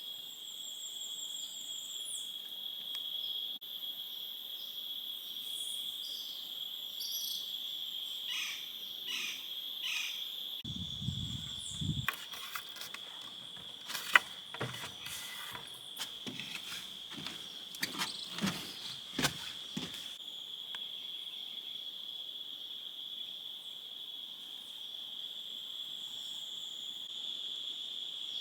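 Steady, high-pitched chorus of crickets and other insects, with scattered short chirps and clicks from other creatures through the middle, one sharp click standing out.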